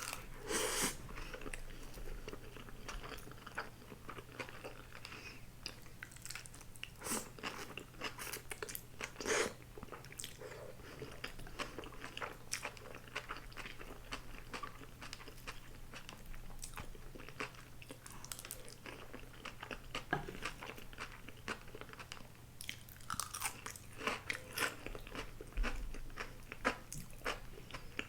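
Close-miked eating of a grilled eel rice bowl: chewing and biting with crunchy bites and many small wet clicks and smacks, louder in bursts now and then.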